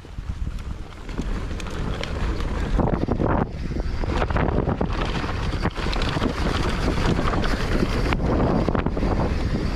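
Mountain bike ridden along a dirt trail: steady wind rush on the microphone over tyre rumble, with frequent short clicks and knocks from the bike rattling over the ground.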